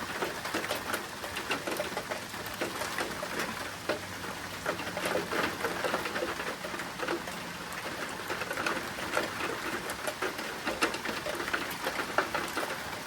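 Rain falling, a steady hiss with many separate drops ticking and pattering on surfaces close by.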